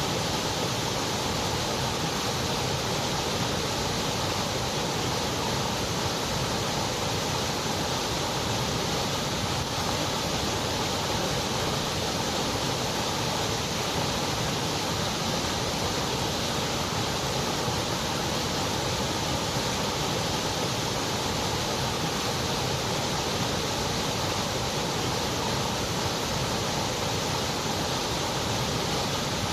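Steady, unchanging white noise: an even hiss with no events.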